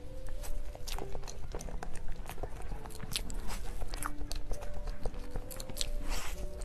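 Soft background music with held notes, over close-up eating sounds: many short, crisp clicks of someone biting and chewing food.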